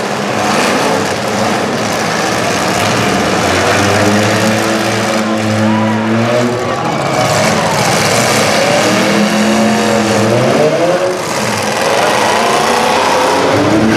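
Demolition derby cars' engines running and revving up and down, several at once, over a constant loud noise. The revving swells twice, once in the middle and again a little later.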